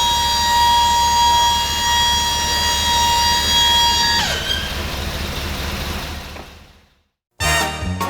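A loud, steady high-pitched tone with overtones over a low vehicle rumble. About four seconds in it drops in pitch and stops, and the remaining noise fades out.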